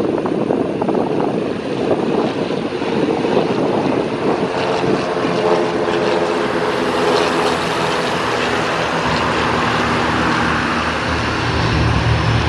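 Propeller-driven light aircraft passing by on its approach. The engine and propeller drone grows into a clear pitched hum about a third of the way in and is loudest around the middle.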